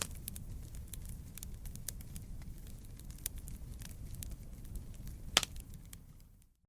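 Wood campfire burning: a steady low rumble of flame with many small crackles and pops, two sharper pops at the start and about five seconds in. It fades briefly almost to silence near the end.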